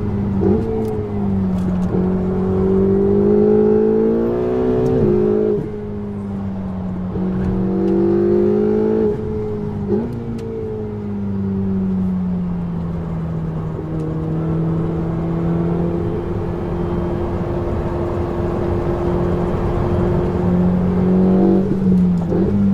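Ferrari 488 GTB's twin-turbo V8 through a Capristo exhaust, pulling hard. The revs climb twice and drop sharply at upshifts about five and ten seconds in. It then eases to a steady lower-rev cruise, with a quick change in revs near the end.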